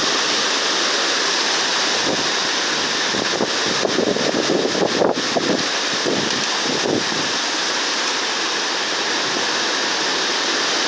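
Hurricane-force wind blowing steadily through trees, with a stronger gust buffeting the microphone from about four to seven seconds in.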